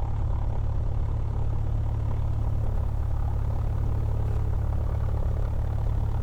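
Cessna 172's piston engine and propeller idling with a steady low drone, heard inside the cabin.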